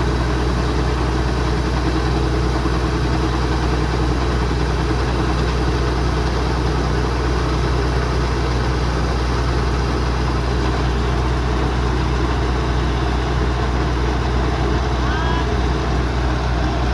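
Kubota DC-105X combine harvester's diesel engine running at a steady, unchanging speed, with the drone of the machine working.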